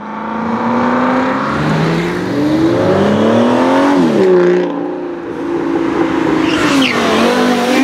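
Ferrari 458 Italia's flat-plane V8 with an aftermarket exhaust revving: the pitch climbs to a peak about four seconds in and drops sharply, then holds steady, dipping and climbing again near the end.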